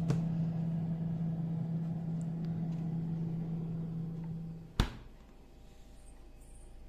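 Refrigerator running with a steady low hum, then a door shut with a single thud about five seconds in, after which the hum stops.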